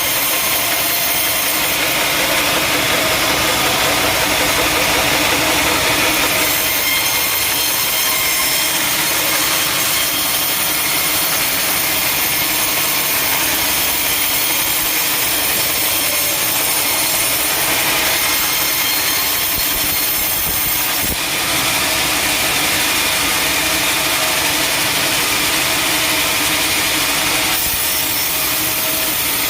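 Sawmill saw cutting steadily through a teak log, a continuous loud running and cutting noise. Its higher hiss shifts several times as the cut goes on.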